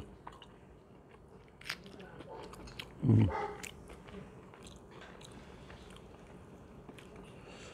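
A person chewing a mouthful of chicken biryani, with faint wet mouth clicks and small crunches, and a short hummed "mm" about three seconds in.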